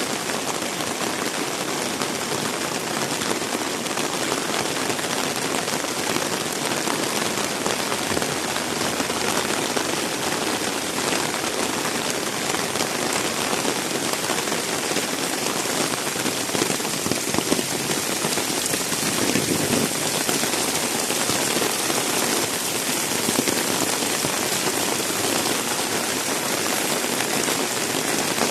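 Heavy rain falling steadily, a dense hiss of drops splashing on wet surfaces with fine scattered patters.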